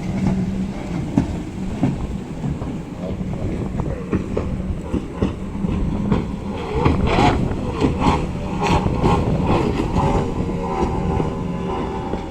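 Racing powerboat engines running with a steady drone, with some wavering in pitch from about halfway through.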